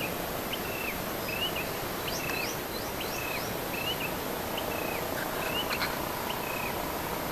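A bird calling over and over with a short hooked chirp, about three every two seconds, with a few quick rising notes about two seconds in, over a steady background hiss of outdoor ambience.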